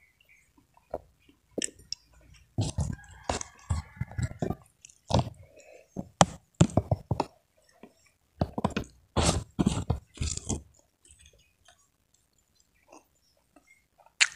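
A person chewing crunchy food, in clusters of loud crisp crunches that stop about ten seconds in.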